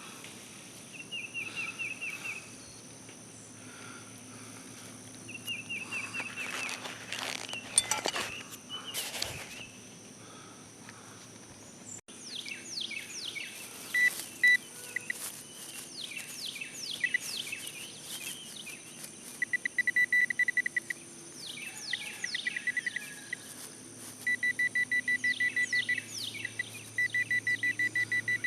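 Electronic beeping from a metal detector: two short warbling tones in the first several seconds, then about halfway through, trains of rapid, even high beeps, mixed with quick falling high chirps. Knocks and scraping, as of digging, come about a quarter of the way in.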